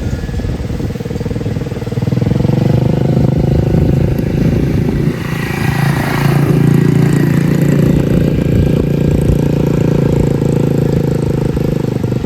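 Small mini bike engine revving up about two seconds in, then running steadily at higher revs, with a short rush of hiss midway.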